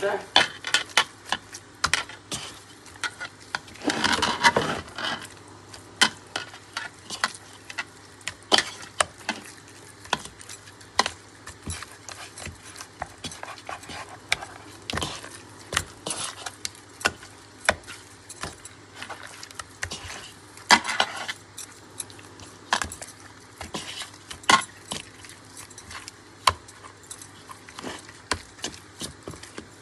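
A metal spoon or spatula clinking and scraping against a cooking pot in irregular knocks, with a longer scrape about four seconds in and again about twenty-one seconds in.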